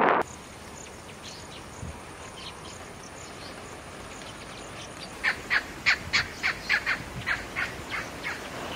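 A bird calling outdoors: faint calls at first, then from about five seconds in a quick run of about a dozen loud, sharp notes, three or four a second, fading near the end.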